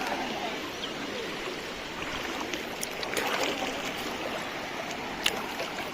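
Floodwater rushing and flowing in a steady, even wash, with a few faint ticks.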